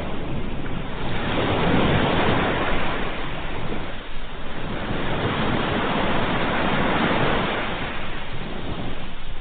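Ocean surf: waves breaking and washing in as a continuous rush. It swells twice, once a couple of seconds in and again past the middle, easing between.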